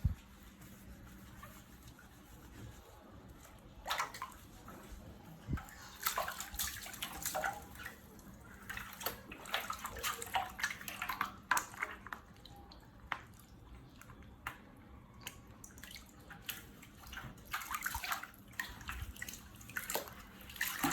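Water splashing in irregular bursts as a baby monkey plays in a small pool of water, starting about four seconds in, over a faint steady low hum.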